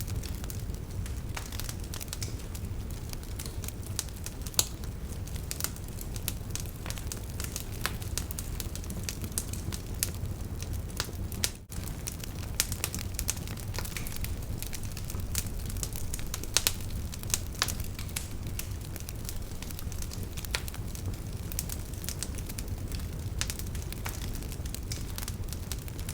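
Wood campfire crackling, with irregular sharp pops over a steady low rush of flowing river water.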